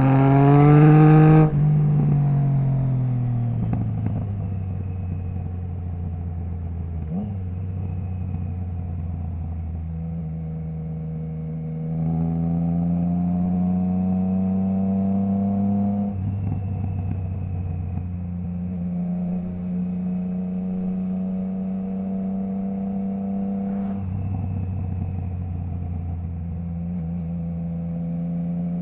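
Triumph Trident 660's three-cylinder engine through a Zard stainless full exhaust with the baffle removed, under way. It accelerates hard in the first second and a half, cuts off sharply as the throttle shuts, and falls in pitch on the overrun. It then settles into part-throttle cruising, with a gentle rise in pitch and abrupt steps in pitch twice later on.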